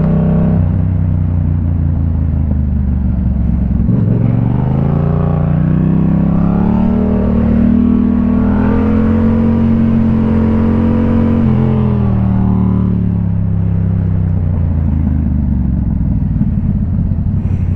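Motorcycle engine under the rider, revving up as the bike accelerates: the pitch climbs over about four seconds, holds high, then drops back as the throttle closes and settles to a steady cruise.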